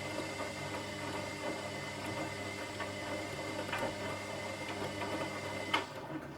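Washing machine running with a steady whirring hum and a few faint ticks. A sharp click comes near the end, and the running drops away to a quieter low hum.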